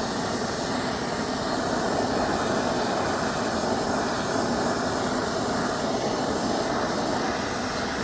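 Propane torch flame blowing steadily as it scorches the surface of a wooden board.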